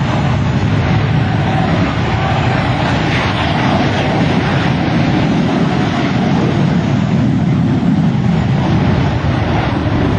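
Shockwave jet truck's three jet engines running at full power on afterburner: a loud, steady noise that holds without a break.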